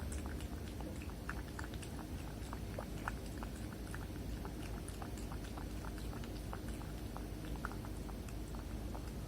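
Kitten lapping cat milk, a steady run of small wet tongue clicks at an uneven pace.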